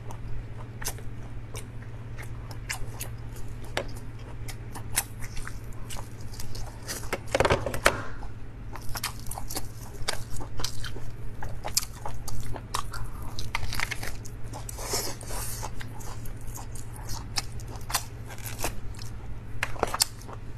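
Close-up eating of steamed lobster meat: wet chewing and biting with many irregular sharp smacking clicks. A steady low hum runs underneath.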